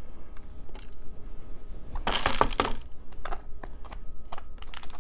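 Knife cutting peppers on a cutting board: irregular sharp taps, with a louder half-second of noise about two seconds in.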